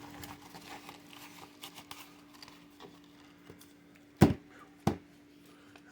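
Soft rustling and crinkling as a mail package is handled and opened, with two sharp knocks about four seconds in, roughly half a second apart.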